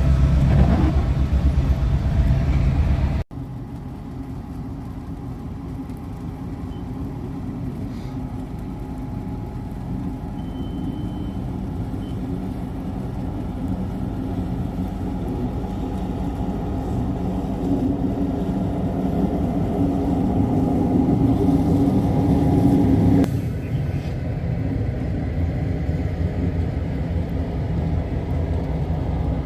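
Diesel locomotive engine running steadily under way. The sound cuts abruptly about three seconds in to a quieter stretch that slowly grows louder, then steps down again near the end.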